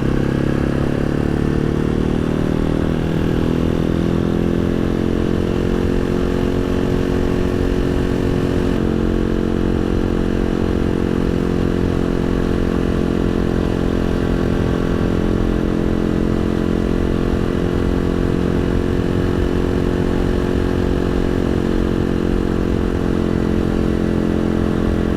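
Janus Halcyon 250 motorcycle's single-cylinder engine running under way. Its pitch rises over the first couple of seconds, then holds steady at an even road speed, over a constant low rumble.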